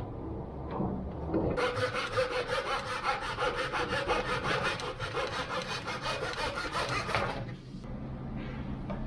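Wood being hand-sawn in quick, even strokes. The sawing starts about a second and a half in and stops about a second and a half before the end.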